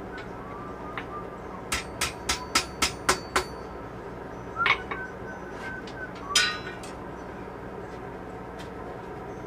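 Blacksmith's hammer striking steel on an anvil: a quick run of about seven blows, roughly four a second, then two more single blows, the last the loudest, with the anvil ringing briefly after some of them. A steady low hum runs underneath.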